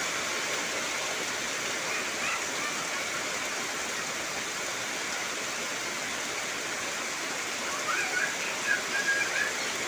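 Heavy rain falling steadily on trees, a dense, even hiss. A few faint, short chirps come through about two seconds in and again near the end.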